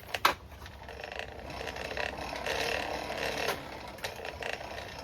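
Two sharp metallic clinks, then from about a second in a steady whirring rush of air. It is the coal forge's blower forcing air into the fire pot while a chain link heats toward welding heat.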